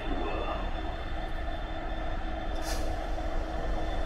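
Train running with a steady low rumble and some faint steady tones; a short hiss cuts in about two-thirds of the way through.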